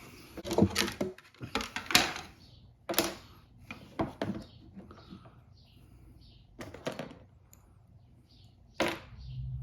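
Clicks and knocks of a phone being handled and set down on a hard work surface: about ten sharp taps, spaced irregularly, with a faint chirping in the background.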